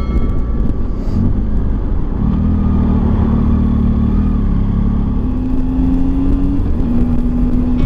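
Triumph Tiger 800's three-cylinder engine running under way over a steady rumble of wind and road noise. The engine note comes up about two seconds in and climbs slowly, dips briefly near the end, then holds steady.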